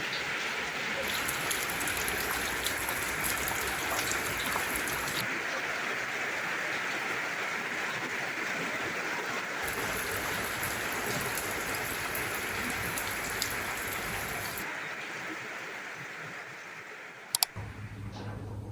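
Steady rain falling, an even hiss that fades over the last few seconds, with one sharp click near the end.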